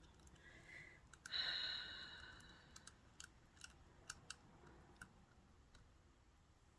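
Faint clicks of a small screw and metal parts being worked by hand on a sewing machine, with a short scraping squeak about a second in.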